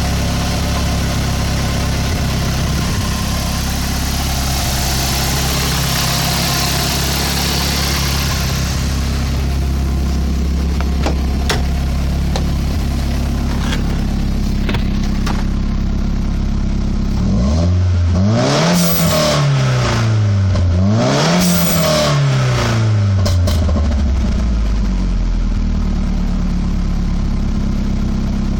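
Nissan S13's four-cylinder engine idling steadily, then revved twice in quick succession about two-thirds of the way in, each rev rising and falling back before it settles to idle again.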